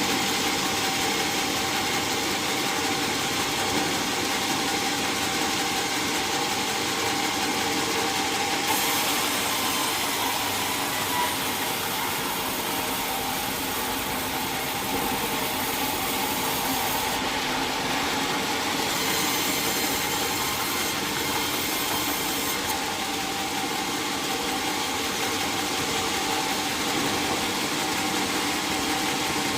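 Sawmill machinery running steadily: a continuous mechanical hum with several steady held tones and no breaks.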